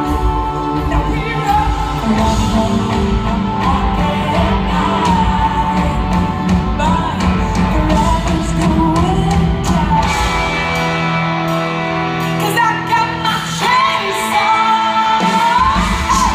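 Band music with a sung lead vocal over guitars, bass and drums; the bass and drums drop away about ten seconds in and return near the end.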